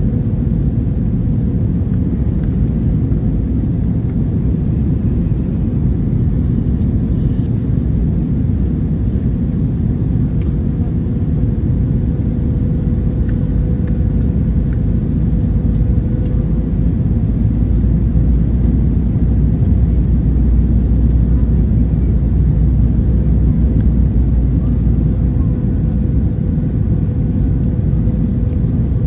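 Airbus A321-200 cabin noise from an economy window seat: the steady low rumble of the jet engines and airflow, with a faint steady hum, swelling slightly in the low end about two-thirds of the way through.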